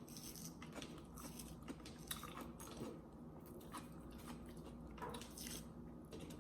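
A person chewing and biting food: faint, soft mouth sounds with small scattered clicks.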